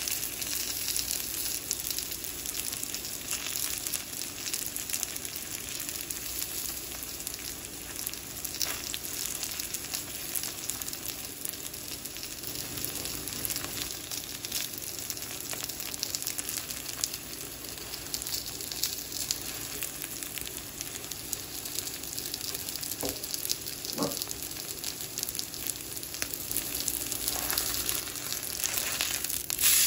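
Food frying in a hot cast iron pan: a steady sizzle and crackle, with two light clicks about three quarters of the way through.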